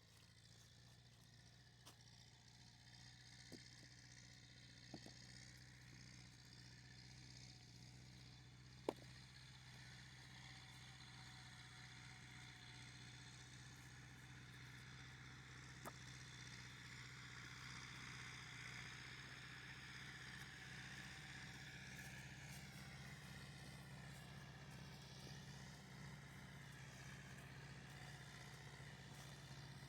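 A faint, steady engine hum from a distant vehicle, slowly growing louder, with a few faint clicks.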